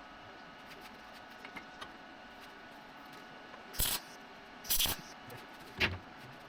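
Three short bursts of MIG welding arc crackle, about a second apart: tack welds being laid on 16-gauge exhaust pipe.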